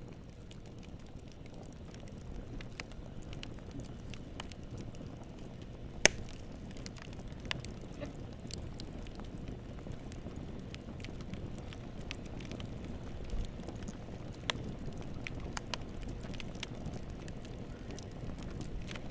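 Wood fire burning in a fireplace: a steady low rumble of flames with scattered sharp crackles and pops, the loudest a single sharp pop about six seconds in.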